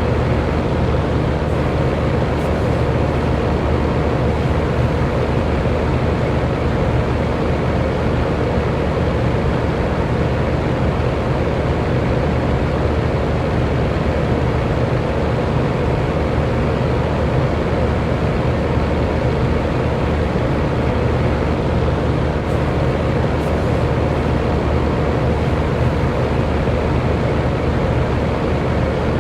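Electric fan running steadily: a whooshing rush of moving air with a faint steady motor hum beneath it.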